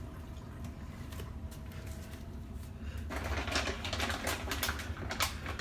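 Light, quick, irregular clicking and rattling of small hard objects being handled, starting about three seconds in, over a steady low hum.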